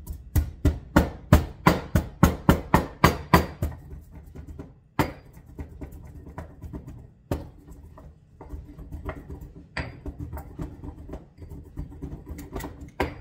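Pestle pounding Sichuan peppercorns in a mortar: about a dozen quick, sharp strikes at roughly three a second, then slower, scattered knocks with grinding in between as the peppercorns are worked to a powder.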